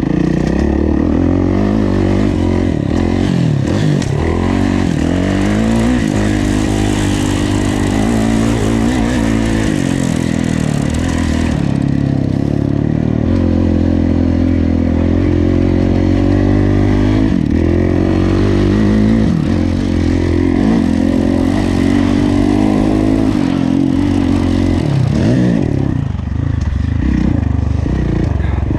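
Kawasaki KX450F's single-cylinder four-stroke engine under race throttle, revving up and falling back again and again as the rider works the gears. Near the end the engine briefly drops off before picking up again.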